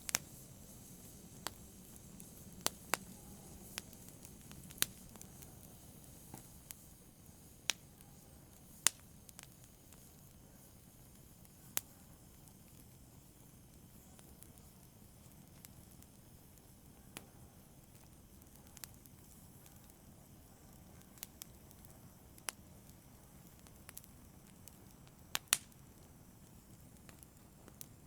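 Faint low hiss of a charcoal brazier's embers, with sharp crackles and pops at irregular intervals, usually a second or more apart; a quick double pop near the end is the loudest.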